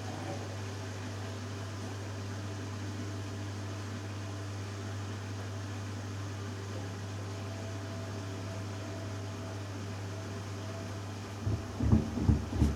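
Hoover Dynamic Next washing machine in its final spin with a 6 kg cotton load, running at a steady high-speed hum. Near the end a run of loud, irregular knocks rises over the hum.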